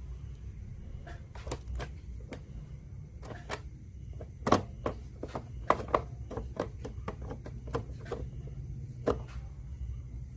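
Light clicks and knocks of small hard parts being handled, a dozen or more at uneven intervals with the loudest about four and a half seconds in, over a steady low hum.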